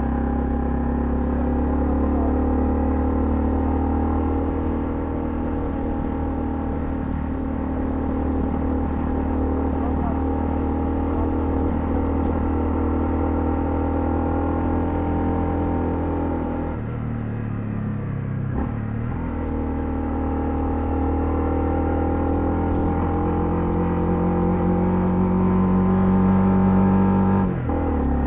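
Honda CL250's single-cylinder engine running on the move: a steady cruise, a gear change about two-thirds through, then a rising pitch as it accelerates, cut off by a sudden drop just before the end as the throttle closes for the next shift.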